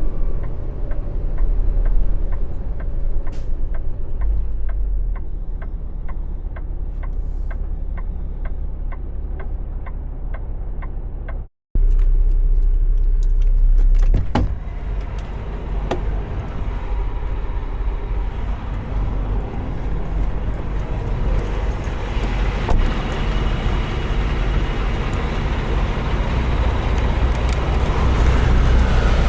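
Semi truck driving at low speed, heard from inside the cab: a steady low engine rumble with road noise. A faint regular ticking runs about twice a second through the first half, and the rumble grows somewhat louder near the end.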